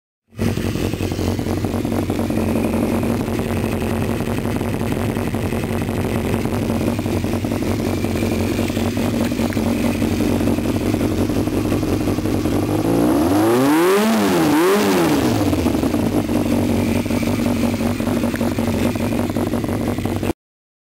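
2002 Yamaha YZF600R's inline four-cylinder engine idling steadily through a Micron aftermarket exhaust, with two quick blips of the throttle about two-thirds of the way through, each rising and falling back to idle.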